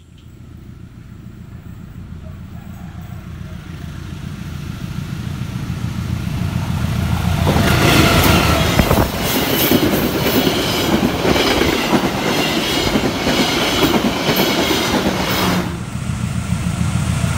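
Diesel-hauled passenger train approaching and passing close by. The locomotive's engine hum grows steadily louder, then about seven seconds in the loud rush of the locomotive and carriages takes over, with wheels clattering over the rails. Near the end the noise drops suddenly, then builds again.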